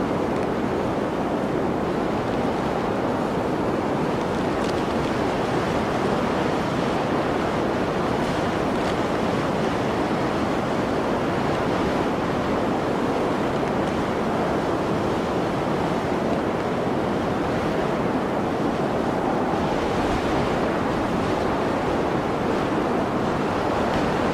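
Blizzard wind blowing as a steady, even rush of noise, without gusts or breaks.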